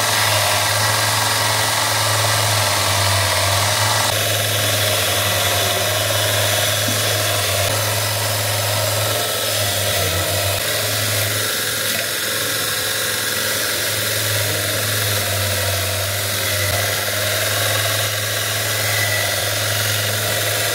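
Power wire brush running steadily against the steel leaf spring, scouring off rust and dirt, with a strong motor hum under a dense scratching hiss.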